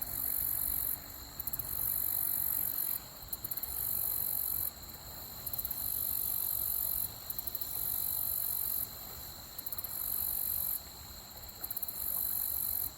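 Insects calling in very high-pitched, pulsing trills that come in bouts of about two seconds, one after another, with steady thin high tones from further insects and a low steady rush of stream water beneath.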